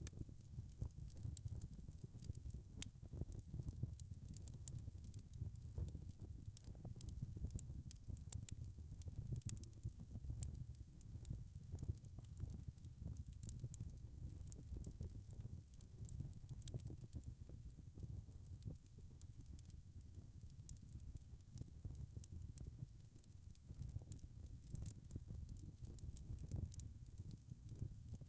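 Wood fire crackling: frequent small sharp pops and ticks over a steady low rumble of burning.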